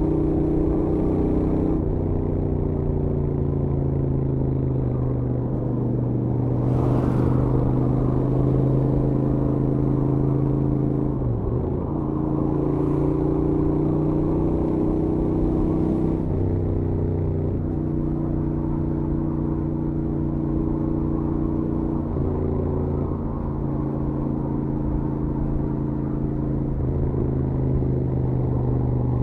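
Stock Royal Enfield Interceptor 650's parallel-twin engine and exhaust running at highway cruise, a steady note whose pitch dips and rises slightly every few seconds with throttle changes. A brief rush of noise about seven seconds in.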